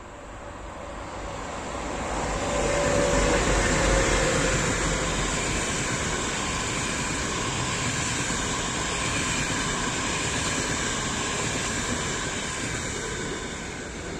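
Diesel-hauled passenger train, a pair of ADtranz DE2000 diesel locomotives at its head, passing: the sound swells to its loudest about three to four seconds in as the locomotives go by, then the carriages roll past in a steady rumble that eases off near the end.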